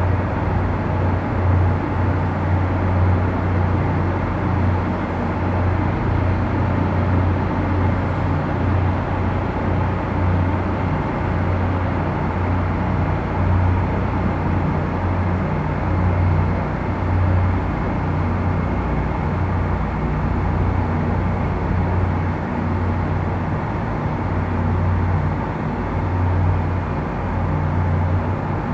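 Steady low engine rumble of the show's watercraft running on the harbour, with a wavering low hum and no distinct events.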